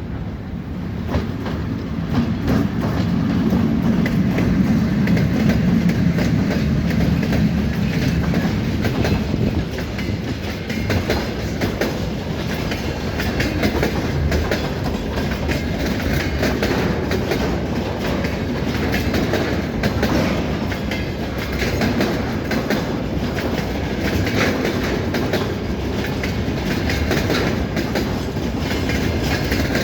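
Freight train hauled by a 2ES6 'Sinara' electric locomotive passing close by. The sound swells in the first couple of seconds to a loud low rumble, then settles into a long steady run of wagons with clickety-clack from the wheels over the rail joints.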